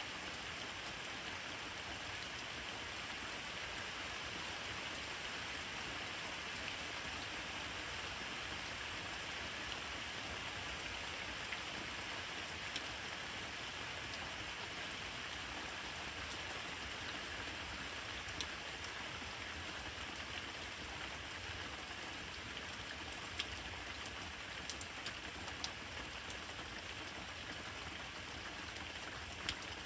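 Steady rain falling, with scattered sharp drops ticking close by.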